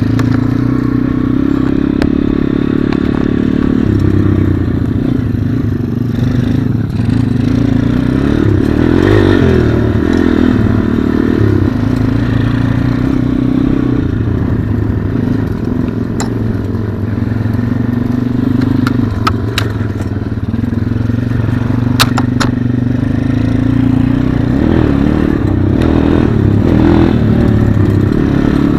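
Pit bike's small single-cylinder four-stroke engine running continuously, its pitch rising and falling with the throttle, with a few sharp clicks about 16 seconds in and again around 19 to 22 seconds.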